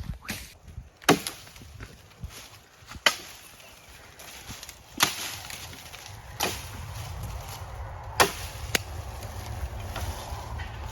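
Dry firewood being broken up: six sharp wooden cracks, spaced roughly one to two seconds apart.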